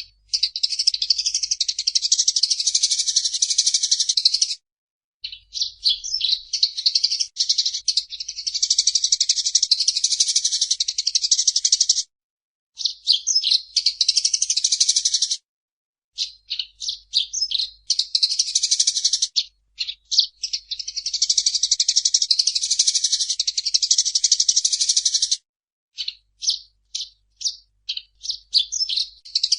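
Eurasian tree sparrow chattering in fast, dense runs of high chirps, broken by a few short pauses and stretches of separate quick chirps, especially near the end.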